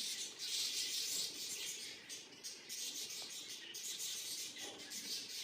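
Blue budgerigars chattering: a scratchy, hissy warble in short, irregular bursts.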